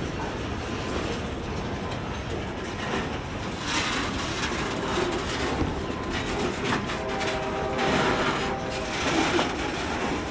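Refrigerated boxcars of a freight train rolling past close by: a steady rumble of steel wheels on rail with a rhythmic clack as the wheels cross the rail joints.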